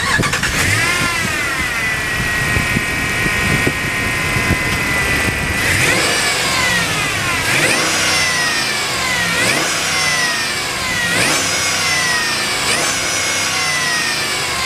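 2011 Dodge Ram 2500 pickup engine catching, its fast idle dropping and settling into a steady idle. Then it is revved five times in quick blips, each rise in pitch falling back toward idle.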